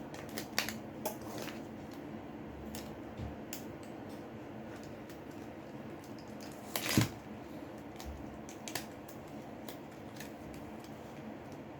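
Small scattered clicks and taps of tools prying at a Samsung Galaxy J6's glued-down screen, with one louder click about seven seconds in, over a steady low hum.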